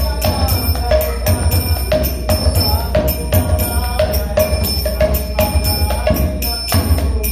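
Kirtan music without singing. Small hand cymbals (kartals) strike in a steady, fast rhythm of about three clashes a second and ring on between strokes, over a pulsing low drum beat.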